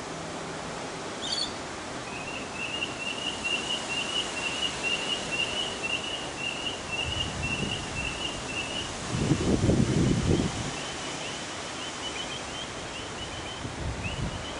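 A bird calling in a fast run of short chirps at one steady pitch, thinning out after about nine seconds, with one brief higher call just before the run starts. Gusts of wind buffet the microphone, the strongest about two-thirds of the way through.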